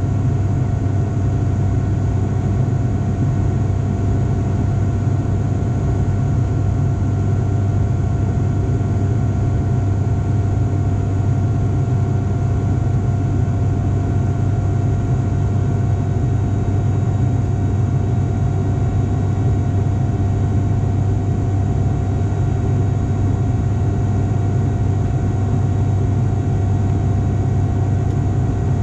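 Steady cabin drone of an ATR 42-500 in flight, from its twin turboprop engines and propellers: a strong low hum with a fainter steady whine above it that does not change.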